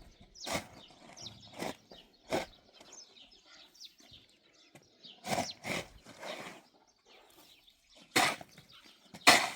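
Sheep bleating in short, separate calls, about eight times, the loudest near the end.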